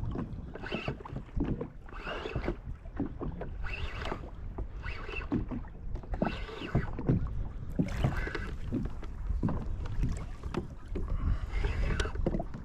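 Water slapping and sloshing against a kayak hull in irregular splashes every second or two, over a low rumble of wind on the microphone.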